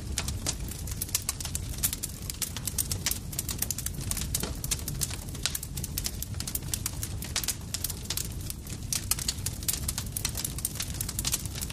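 Campfire burning with dense, irregular crackles and pops of burning wood over a steady low rumble of the flames.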